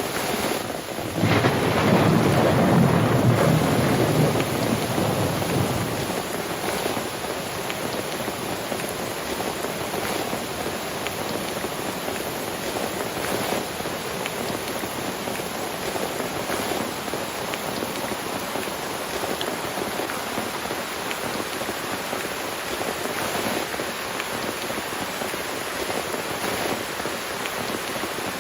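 Steady heavy rain in a thunderstorm, with a loud rumble of thunder starting about a second in and fading out over some five seconds, the loudest part; after it the rain runs on evenly with scattered drop ticks.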